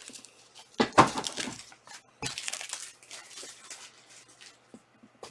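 Trading card boxes and foil packs being handled: a sharp knock about a second in, then light rustling, crinkling and small clicks.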